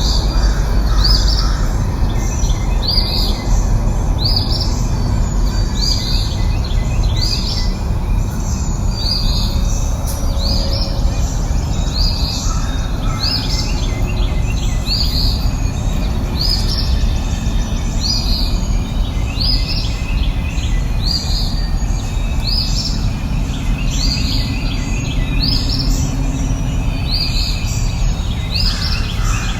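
A bird giving the same short, high, chirping call over and over, about once every second and a half, over a steady low rushing background noise.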